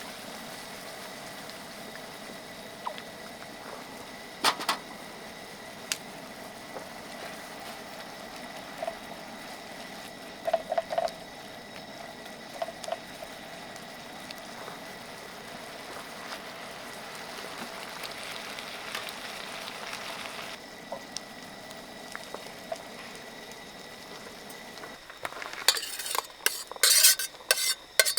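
Food frying in a pan: a steady hiss with occasional single clinks of a utensil against metal, then a quick run of fast clattering stirring near the end.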